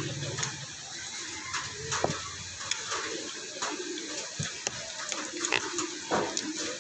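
Close-up eating sounds: wet chewing and crunching of raw radish salad dressed in vinegar, with irregular sharp clicks and smacks. A low hum stops about two and a half seconds in.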